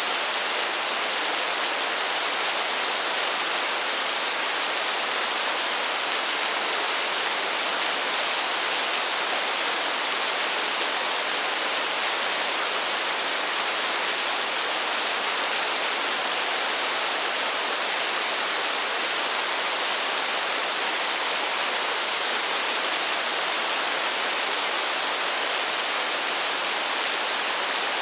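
Steady rain falling: an even, unbroken hiss that keeps the same level throughout.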